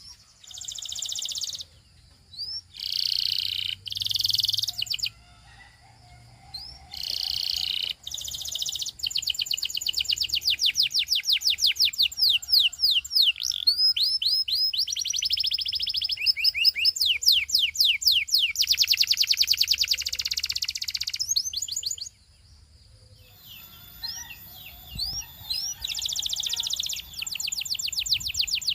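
Canary singing: a few short song phrases in the first seconds, then long fast rolls of rapid falling notes, about ten a second, broken by a short pause about 22 seconds in before the rolls resume.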